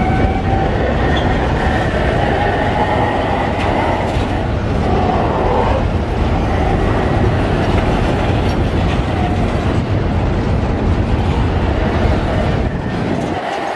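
Freight train of hopper cars rolling past close by: a steady heavy rumble of steel wheels on rail, with faint squealing tones in the first half. The deep rumble drops away about a second before the end.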